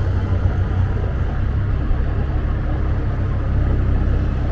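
Motorbike engine running and wind and road noise on a moving motorbike, a steady low rumble picked up by the rider's wind-muffled microphone.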